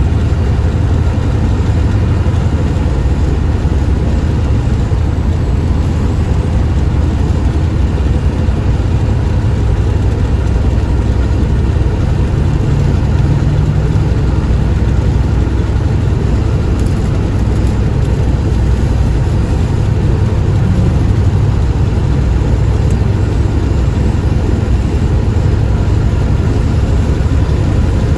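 Steady low rumble of a semi truck's engine and road noise heard inside the cab.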